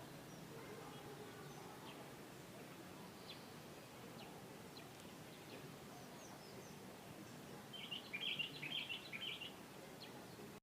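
Red-rumped cacique calling over faint outdoor background hiss: a few scattered short chirps, then a quick burst of rapid high chattering notes about eight seconds in, lasting a second and a half.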